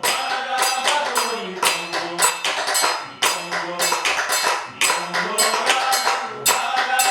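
Afro-Cuban percussion ensemble playing a fast palo (Congo) rhythm, with dense sharp drum and percussion strokes several times a second and voices singing along in the middle.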